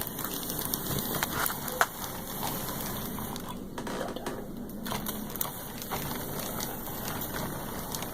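HO scale model steam train running along its track: a steady small-motor whir and rattle of wheels on rail, with scattered clicks and one sharper click about two seconds in. The model has no sound system, so this is its mechanical running noise.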